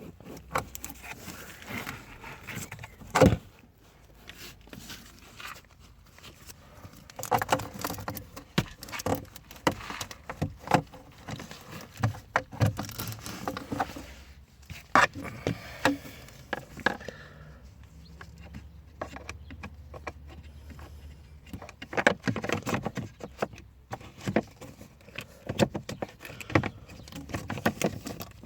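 Irregular clicks, knocks and rattles of hands working on plastic parts, such as the cabin filter housing and trim of a van, with one louder knock about three seconds in.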